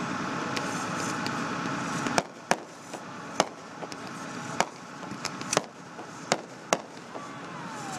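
Fireworks going off: a steady rushing noise for about two seconds, then a string of about nine sharp bangs over the next five seconds, some in quick pairs, as shells burst overhead.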